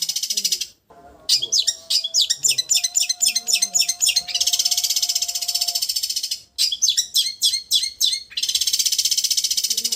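Long-tailed shrike (cendet) song: a fast, high buzzing trill that returns three times, alternating with runs of sharp, quick chattering notes.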